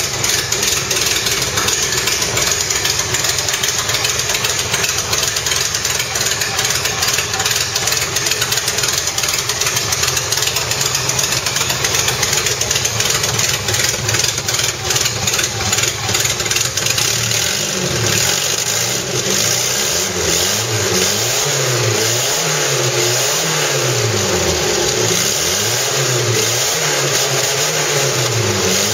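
Volvo 240 engine running with the hood open, heard close up in the engine bay. It idles steadily at first, then from about two-thirds of the way in it is revved up and back down again and again, roughly every second and a half.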